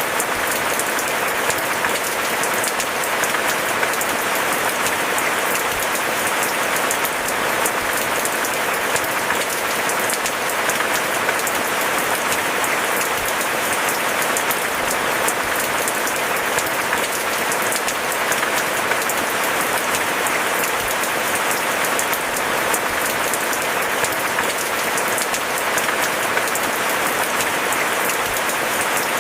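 Steady heavy rain, a dense, even patter of countless drops with no thunder.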